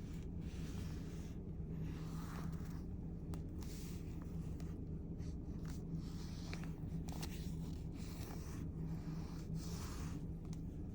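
Intermittent scratchy rubbing and scraping strokes on paper, with a few light clicks, over a steady low hum.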